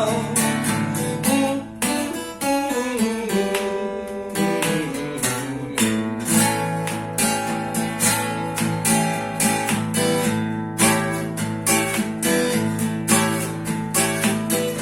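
Acoustic guitar strumming chords in a steady rhythm, with no singing: the instrumental ending of a song.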